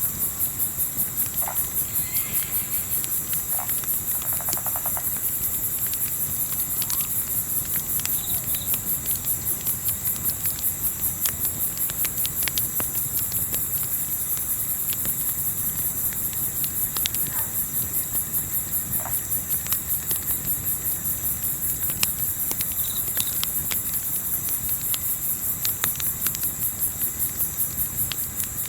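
Crickets chirping in a steady, evenly pulsing chorus, about three pulses a second, over a low rumble. Occasional sharp crackles of a campfire come through, with a few faint, brief distant calls.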